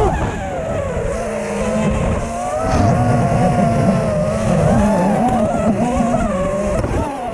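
FPV racing quadcopter's motors and propellers whining steadily, the pitch rising and falling as the throttle changes.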